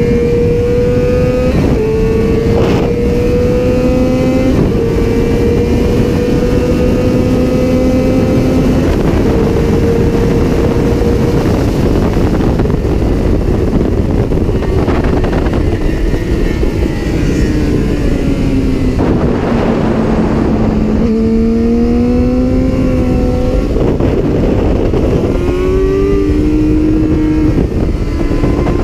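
Yamaha R6's inline-four engine at high revs under hard acceleration, climbing through the gears with quick upshifts where the pitch drops suddenly, then easing off as the revs fall slowly, and pulling up through the gears again near the end. Wind rush from riding at speed runs underneath.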